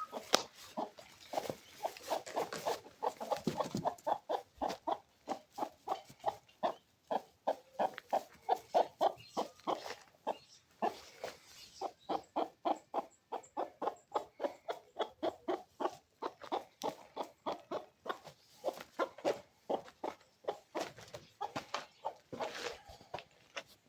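Chickens clucking in a rapid, continuous run of short calls, several a second: hungry birds excited at feeding time.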